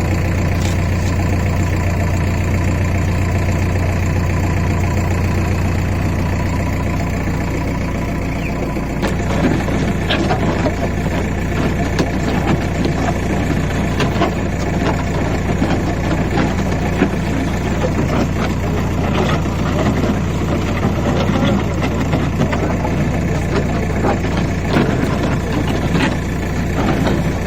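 Diesel engine of a JCB backhoe loader running steadily; about nine seconds in its low hum drops and the sound turns rougher, with scattered clattering knocks.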